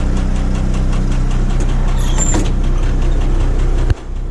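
International DT466 inline six-cylinder diesel idling steadily at about 600 rpm just after a cold start, loud and even. A brief high squeak comes about two seconds in, and near the end a click and a sudden drop in the engine sound.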